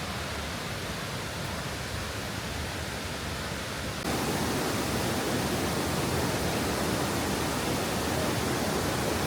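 Steady rushing of flowing water, a continuous hiss with no distinct events, which gets abruptly louder about four seconds in.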